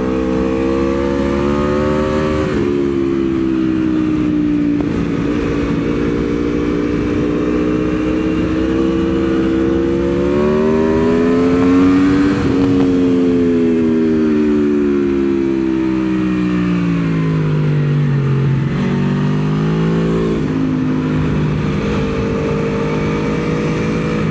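Aprilia Tuono V4's V4 engine heard onboard at speed on track. Its pitch climbs steadily under acceleration, then falls back sharply about two seconds in, at about twelve seconds, and again about twenty seconds in. A long slow fall between about twelve and eighteen seconds marks braking and downshifting into a corner.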